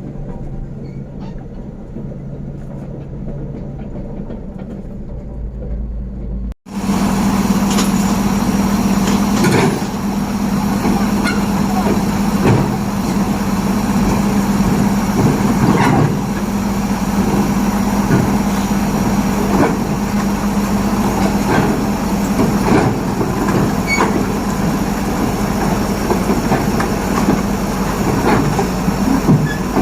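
Komatsu D375A crawler bulldozer's diesel engine running steadily, with irregular clanking and knocking of its steel tracks. The sound breaks off briefly about six and a half seconds in and comes back louder and closer.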